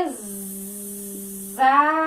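A woman's voice sounding out the letter sound "z": a long, steady buzzing "zzz" held for over a second, between spoken vowels.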